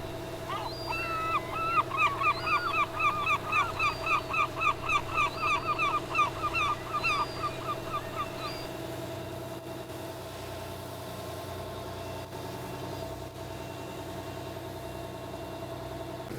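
A bird calling in a rapid series of sharp repeated notes, about four a second, for roughly eight seconds, then stopping. Under it the boat's engine runs steadily.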